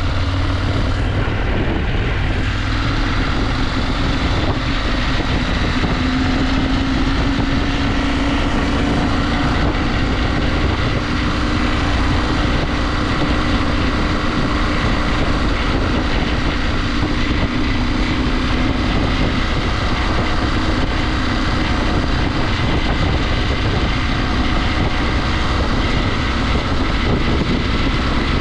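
KTM 890 Adventure's parallel-twin engine running steadily under way, mixed with a dense, steady rush of riding noise; the engine note rises a little about six seconds in, then holds.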